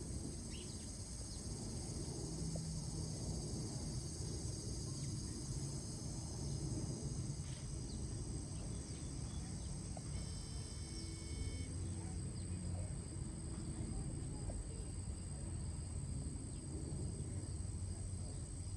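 Steady chorus of crickets or similar insects, a continuous high-pitched trill over a low background rumble. A few short chirps are scattered through it, and a longer pitched call with several overtones comes about ten seconds in.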